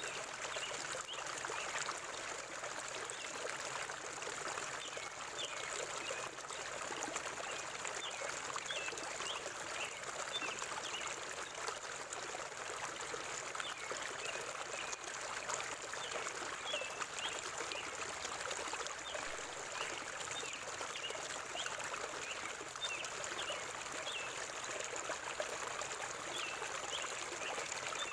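River water flowing steadily, with a constant rushing and trickling, while small birds give short, high chirps over it again and again.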